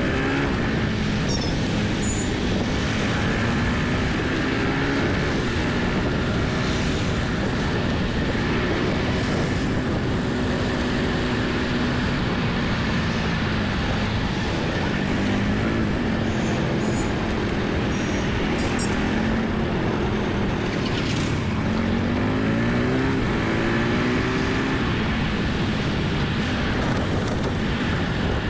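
Onboard sound of a motorbike being ridden through city traffic: a steady engine note over road and wind noise, the pitch rising and falling as it speeds up and slows, rising sharply about three-quarters of the way through.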